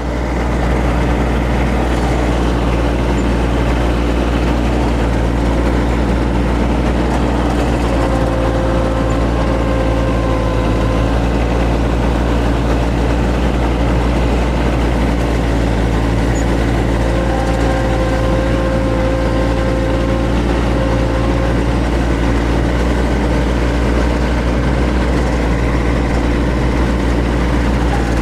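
John Deere X748 ride-on mower's three-cylinder diesel engine running steadily while it mows with freshly sharpened deck blades. A faint higher tone comes and goes twice.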